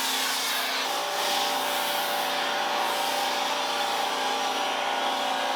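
Electric pressure washer running steadily, its motor humming under the hiss of the water spray.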